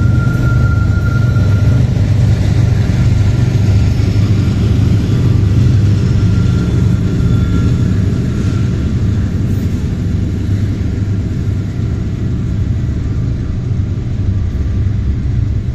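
Freight train getting under way: BNSF diesel-electric locomotives running under load with a deep, steady rumble as the open hopper cars roll past on the rails, easing off a little in the second half.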